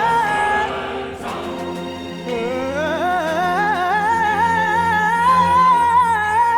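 Choral-orchestral music: a sustained low chord under a high solo voice singing a slow, climbing line with wide vibrato, entering about two seconds in.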